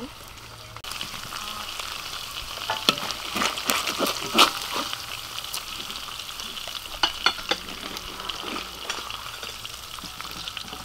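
Eel pieces sizzling in oil in a metal wok, the hiss starting about a second in. A metal spatula scrapes and clicks against the wok several times as the fried pieces are lifted out.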